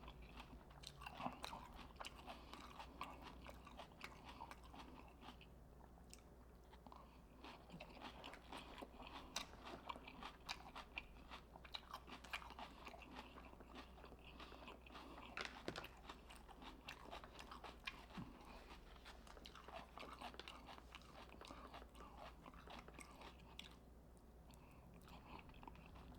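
A person chewing and eating close to the microphone: faint, irregular small clicks, smacks and soft crunches of food in the mouth.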